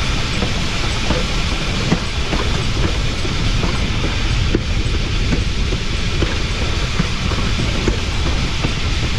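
Wheels of the Cumbres & Toltec narrow-gauge steam locomotive 488 rolling on rail, heard close to its pilot truck: a steady, loud rumble with scattered short clicks from the running gear and track.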